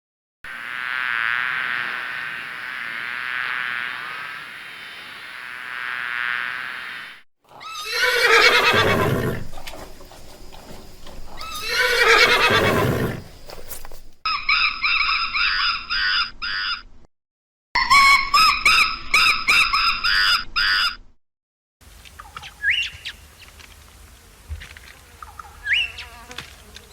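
A series of animal sounds: first a bee buzzing steadily for about seven seconds, then a horse neighing twice, each whinny falling in pitch. After that comes a run of monkey calls with short gaps, and near the end only faint scattered sounds with a couple of brief chirps.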